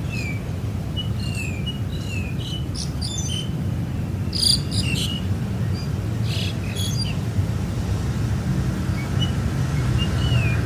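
Small birds chirping and calling: short, falling whistled notes and sharp high chirps, thickest in the first seven seconds with a few more near the end, over a steady low rumble.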